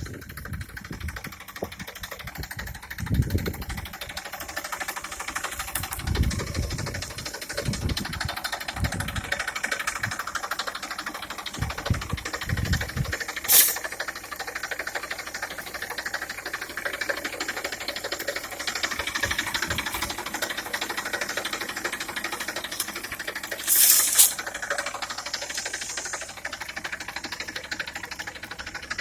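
Tractor engine running steadily with a fast, even clatter. Low rumbling bursts come and go over the first dozen seconds, and two sharp clicks fall about halfway and near the end.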